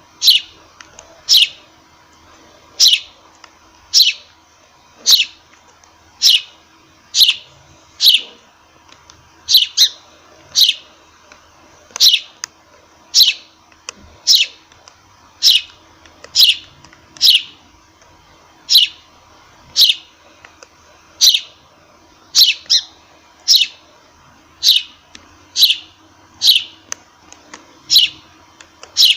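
A sparrow chirping: single short, sharp chirps repeated about once a second, each sliding quickly down in pitch, now and then two in quick succession.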